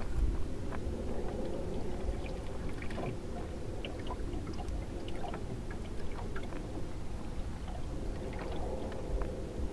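Water lapping and trickling along the hull of a small sailing dinghy under way, with scattered small splashes and a low wind rumble on the microphone.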